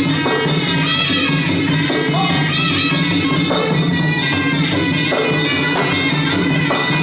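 Traditional Khmer boxing fight music: a sralai oboe melody over drums, with steady held tones beneath.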